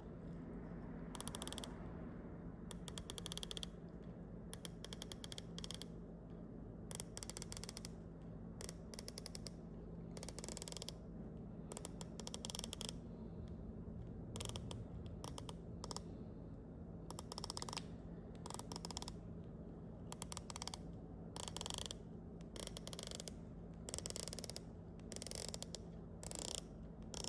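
Zodiac Sea Wolf dive watch's rotating bezel being turned in short bursts, each giving a quick run of small ratchet clicks, with brief pauses between the bursts throughout. A faint steady low hum lies underneath.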